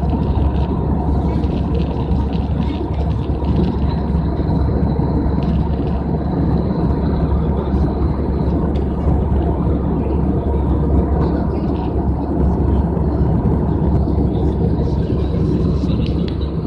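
Steady aircraft cabin noise in flight: the engines and airflow making a constant low rumble that does not change.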